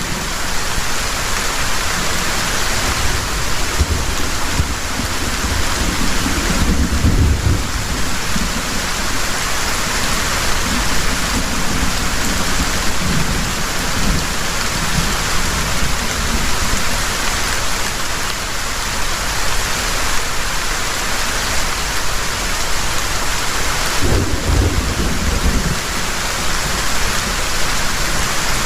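Heavy rain falling steadily as a dense hiss, with low rumbles of thunder swelling about a quarter of the way in and again near the end.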